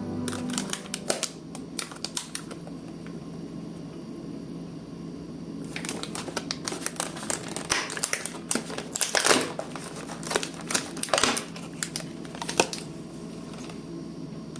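Scattered small clicks and taps with crinkling rustles as objects are handled, growing busier about halfway through, over a faint steady hum.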